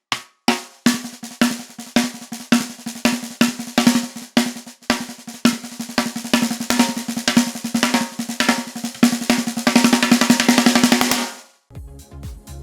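A Peace SD524MP-602 snare drum with a 13 x 5.5 inch 9-ply maple shell is played with sticks in fast, busy patterns, building into a snare roll that stops sharply about eleven seconds in. Outro music starts right after it.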